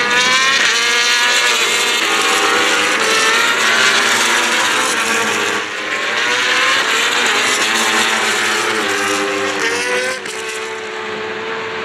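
Racing superbike engines at high revs passing on track. The engine pitch climbs steeply and drops several times as the bikes shift up and down through the gears, with more than one engine heard at once.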